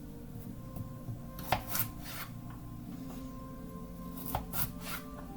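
Carrots and a knife being handled on a cutting board: a few short knocks and scrapes in two groups, about a second and a half in and again near the end, over quiet instrumental background music.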